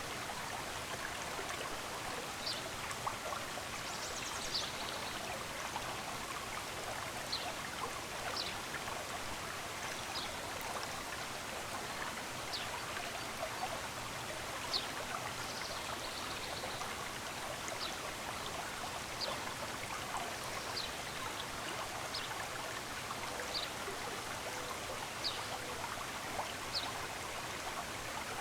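A stream running steadily, with a bird giving short, high chirps every second or two.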